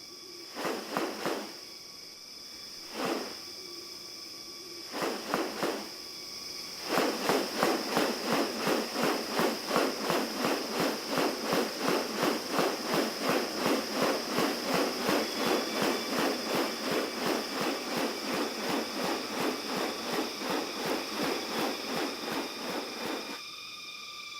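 Rainforest ambience: a steady high insect drone, with a few short pulsed calls at first. A long run of rapid repeated pulsing calls follows, about three a second, stopping shortly before the end.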